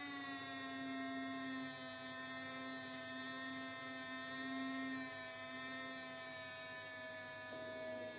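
Small electric motor running at a steady pitch, with a slight drop in pitch about five seconds in.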